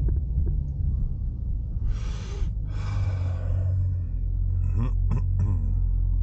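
6.4-litre 392 Hemi V8 of a Dodge Durango SRT running at low traffic speed, a steady deep drone. Over it, two loud breathy exhales about two and three seconds in.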